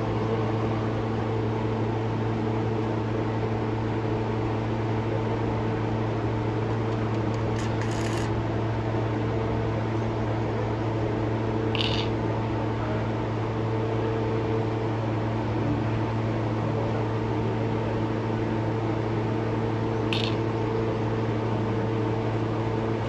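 Toyota Premio's 1ZZ-FE four-cylinder engine idling with a steady, even hum, the engine whose sound problem is under investigation. Three short high-pitched chirps break in about 8, 12 and 20 seconds in.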